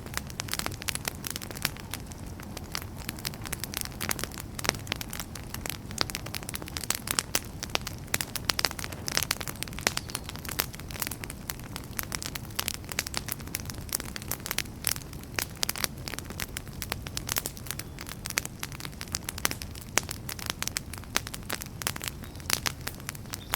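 Wood campfire burning with dense, irregular crackling and popping over a steady low rumble of flames.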